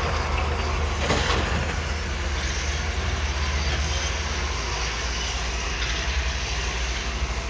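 Heavy diesel engine running steadily with a low rumble, with a brief noisy burst about a second in.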